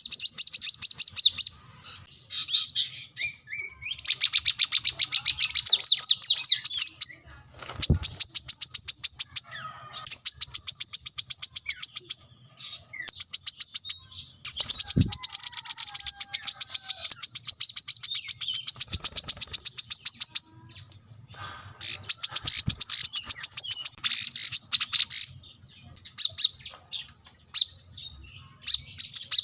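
Brown-throated sunbird (kolibri kelapa) singing persistently: long, rapid high-pitched trilling phrases of several seconds each, broken by short pauses.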